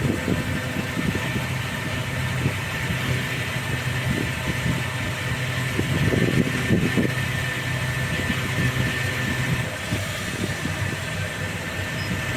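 Fuel dispenser pumping petrol into a car's tank: a steady hum with a thin high whine. Strong wind buffets the microphone over it, gusting hardest about six seconds in.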